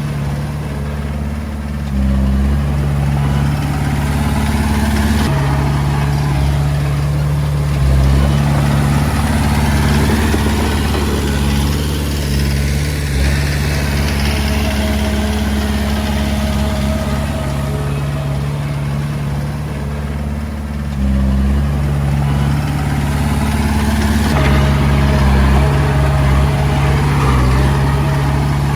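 Komatsu D20A crawler bulldozer's diesel engine working. Its low note steps sharply up and down in pitch and loudness every several seconds as the load on it changes.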